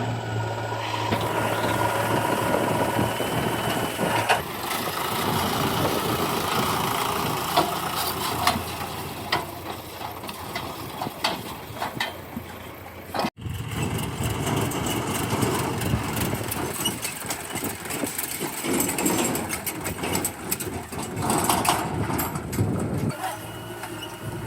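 JCB 3DX backhoe loader's four-cylinder diesel engine running as it works, with scattered knocks and clatter throughout. The sound drops out for a moment about halfway through.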